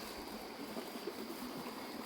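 Faint outdoor ambience: a steady hiss with a thin, high, unbroken insect drone.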